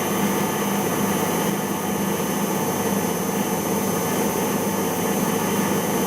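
Siemens iQ front-loading washing machine's drum spinning steadily at high speed during the cotton intermediate spin after the wash, with a steady motor hum and whine.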